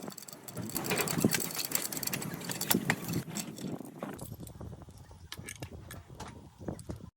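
Rapid clicking, clinking and knocking of hard objects being handled, dense at first and thinning out after about four seconds, then cutting off abruptly.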